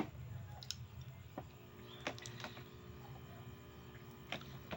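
Quiet eating sounds: chewing and mouth noises with a few light, sharp clicks spread through, over a steady low hum.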